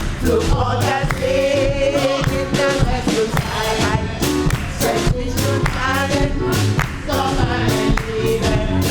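Live gospel music: singers hold wavering, vibrato-laden lines over a band with a bass line and a steady beat.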